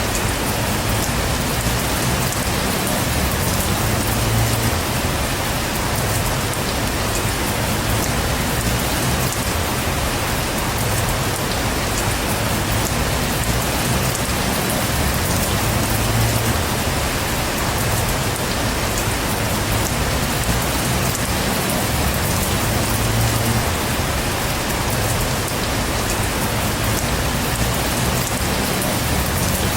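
Heavy rain pouring steadily, a dense even hiss, with a low rumble swelling now and then underneath.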